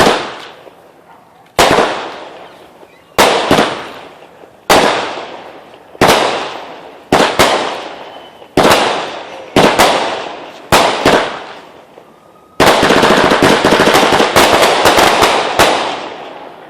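A 200-gram Black Label firework cake firing shot after shot, a sharp report about every second or so, each trailing off into crackling. About twelve seconds in, it breaks into a dense, continuous crackle for about three seconds, then fades out.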